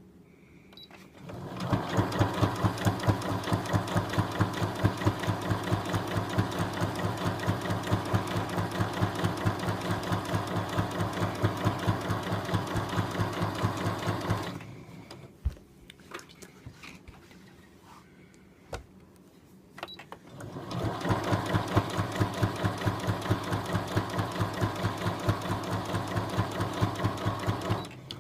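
Brother A39-MM electronic sewing machine running at a steady, fast stitching rhythm. It runs for about thirteen seconds, stops for several seconds with a few isolated clicks, then runs again for about seven seconds near the end.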